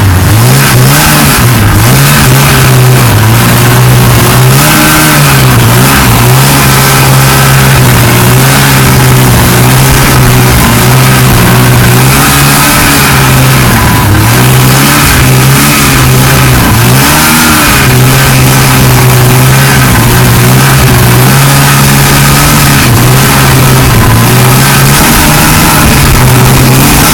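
1979 Ski-Doo Blizzard 5500 snowmobile's two-stroke engine running under way, its pitch rising and falling over and over as the throttle is worked, over a steady rushing noise.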